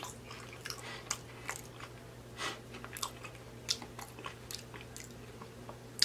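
Close-miked mouth sounds of a person chewing soft food (macaroni and cheese, rice and cabbage) with the lips smacking: irregular small wet clicks, with a sharper one near the end. A faint steady low hum runs underneath.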